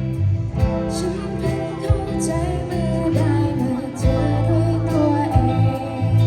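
A band playing a song, a singer's voice over guitar, bass and a regular drum beat.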